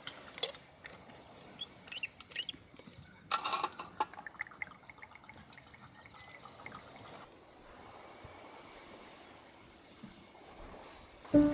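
Outdoor ambience of insects buzzing steadily at a high pitch, with scattered short chirps and clicks in the first few seconds.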